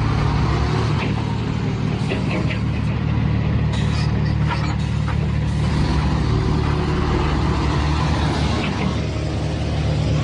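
A heavy vehicle's engine running steadily at a low, even pitch, with a few short knocks and clanks about two to five seconds in.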